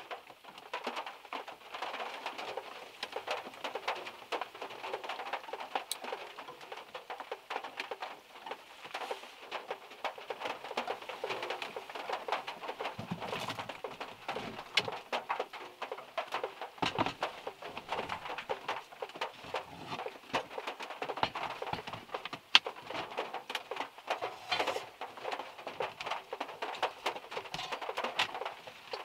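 Rain and drops from overhead trees pattering on a small car's roof and body: a dense, irregular stream of small ticks with a few heavier single drops.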